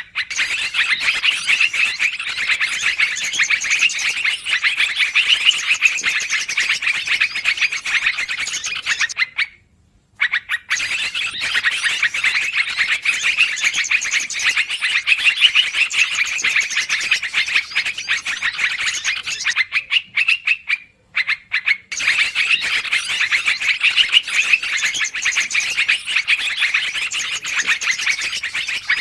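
Lure recording of yellow-vented bulbuls (trucukan) calling noisily: dense, continuous rapid chattering, broken twice by brief pauses, about 10 s and 21 s in, where the recording loops.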